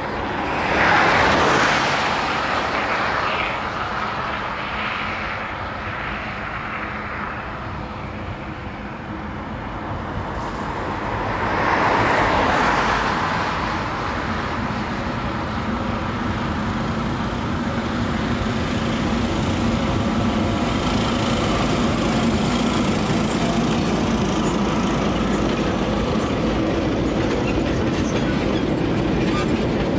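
Narrow-gauge sugar cane railway train running, the engine's steady hum and the wheel noise growing louder as it comes closer. Before that there are two passing swells of noise, about a second in and again about twelve seconds in.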